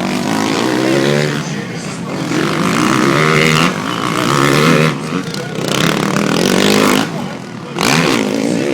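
Motocross dirt bikes racing, their engines revving up and down in pitch as they accelerate and shift. Several bikes overlap, with the loudest passes a few seconds in and again near the end.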